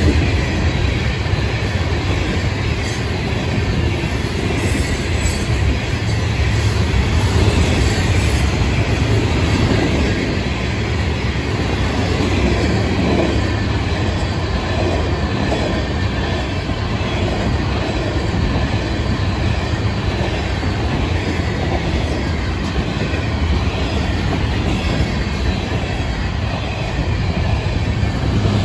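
Florida East Coast Railway freight cars rolling past close by: hoppers, gondolas and autoracks, with the steady rumble of steel wheels on rail.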